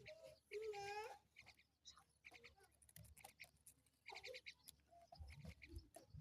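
Faint chukar partridge calls: a pitched call that rises and falls about half a second in, and quick runs of high, clicking notes repeated several times.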